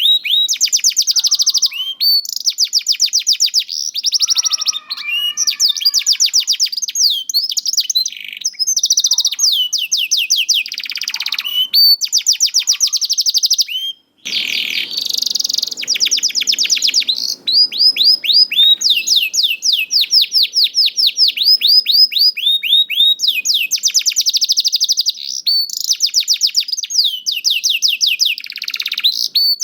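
Domestic canary singing continuously in fast, high trills of rapidly repeated notes strung together in phrases, with a brief break about fourteen seconds in.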